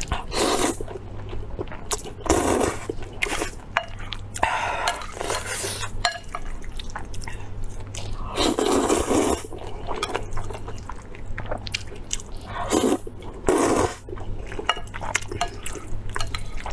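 Close-miked eating sounds: wet, irregular chewing and slurping bursts, with chopsticks or utensils now and then clinking against the dishes.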